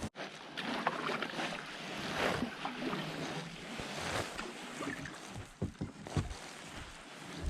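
Canoe paddling: paddle strokes swishing through the water about once a second, with a few light knocks near the end.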